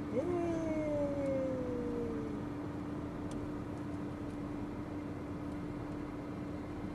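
Steady hum inside a moving car, with one long falling tone that slides down over about two seconds near the start.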